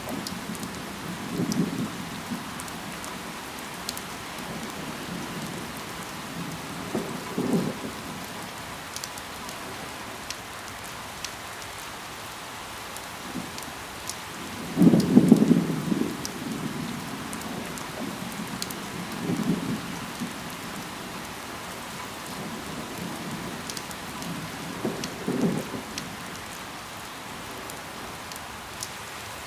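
Steady rain falling, with scattered sharp drop ticks. Brief low rumbles swell up every few seconds, the loudest about halfway through.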